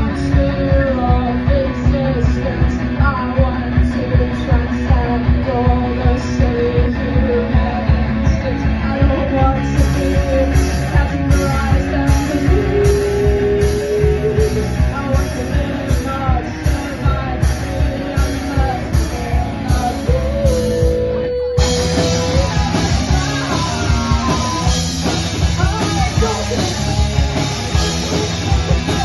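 A live rock band playing an original song: a singer over electric guitar, bass and drum kit. The band stops for a moment about three quarters of the way through, then comes back in fuller, with more cymbals.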